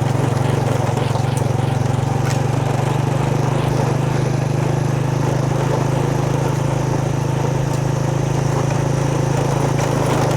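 Motorbike engine running steadily under way, a loud, even, fast-pulsing note that holds without revving up or down.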